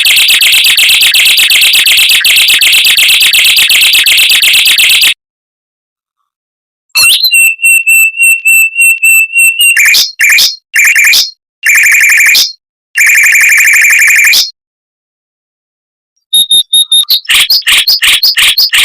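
Mockingbird singing fast, tight rolls of rapidly repeated high notes. The song comes in three stretches, broken by two dead-silent gaps of about two seconds each.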